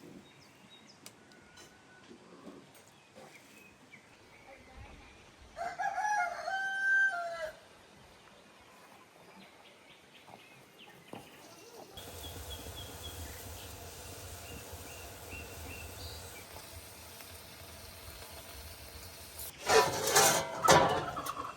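A rooster crows once, a single call lasting about two seconds, some six seconds in. Near the end comes a short, louder burst of noise.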